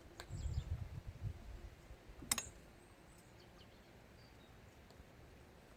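Low handling rumble, then a single sharp tap about two seconds in as a sea stone is set into wet mortar. Faint bird chirps sound in the background.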